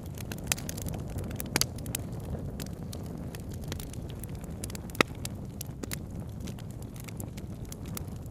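Wood campfire crackling and popping irregularly over a steady low rumble, with one sharp, loud pop about five seconds in.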